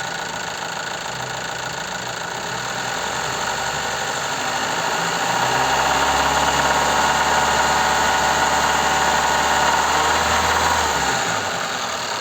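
Toyota 3S two-litre four-cylinder engine idling, then revved up from about three seconds in, held at raised revs, and let back down to idle near the end. The engine has a knocking connecting rod from running short of oil, a knock that comes up when the revs are raised and comes from the lower part of the block.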